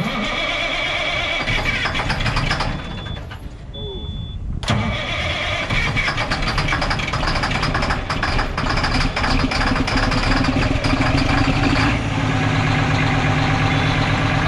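Peterbilt dump truck's diesel engine cold-starting in freezing weather: it comes in loud at once, eases off about three seconds in, then picks up sharply near five seconds and runs steadily. A short high beep sounds during the lull.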